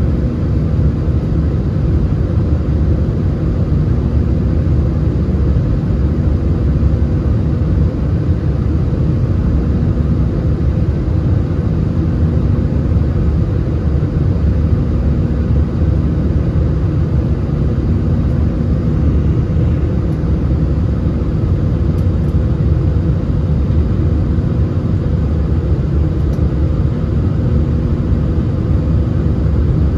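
Steady low rumble of an Airbus A320's jet engines and rushing air, with a faint hum that comes and goes every few seconds.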